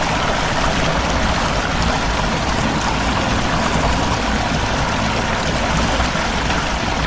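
Fast-flowing floodwater rushing through a street, a loud, steady rush of water with a deep rumble underneath.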